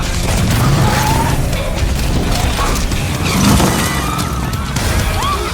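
Action film soundtrack: music mixed with chase sound effects, with mechanical clatter and crashes.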